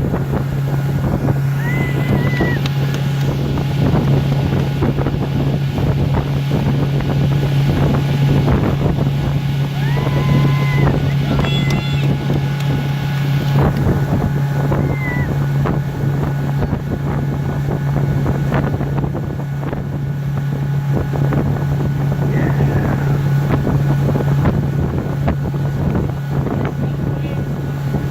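Motorboat engine running at a steady speed while towing a water-skier, a constant low drone, with wind buffeting the microphone.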